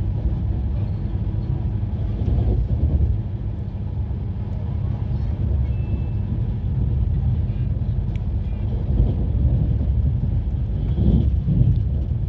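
Steady low rumble of a moving train, with a faint hum underneath.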